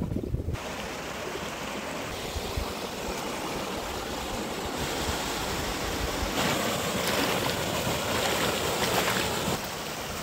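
Mountain stream water rushing over rocks, a steady hiss that grows louder for a few seconds in the latter half.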